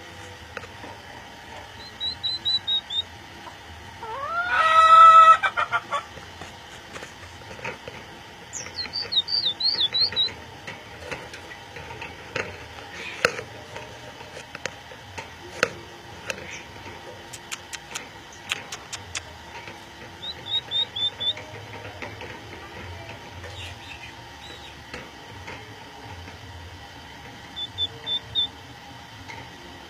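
Budgerigars chirping in short, high trills several times. About four seconds in there is one louder, longer call of several tones, and there are scattered clicks in the middle.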